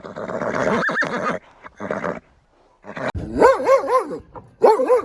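A horse neighing, then, after a short gap, a dog barking in quick groups of high-pitched barks, about three a second.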